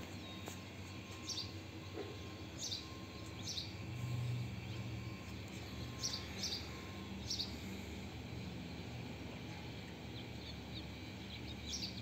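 Small birds chirping, short high calls that each sweep quickly downward, coming irregularly about seven times over a steady low background hum that swells briefly about four seconds in.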